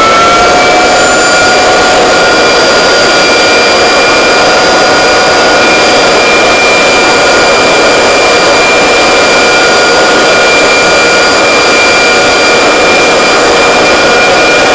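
Vacuum cleaner motor running steadily at full speed: a loud, even whine with a rushing of air beneath it.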